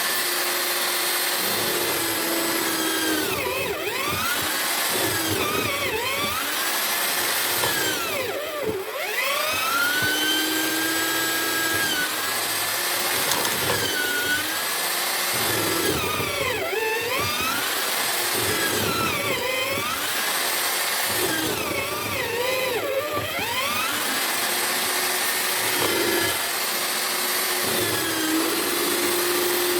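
Drill motor of a homemade mortiser running continuously, its whine dipping in pitch every few seconds and recovering as the bit is loaded by plunges into the wood.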